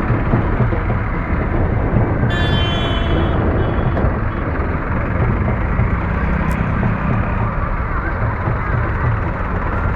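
Diesel engines of several Farmtrac tractors running together in a steady, loud, dense rumble. A short high-pitched tone sounds for about a second, roughly two and a half seconds in.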